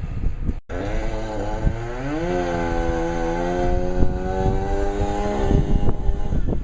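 Small two-stroke engine, likely a chainsaw, revving up about a second in, holding high revs, and dropping off near the end, over low rumble.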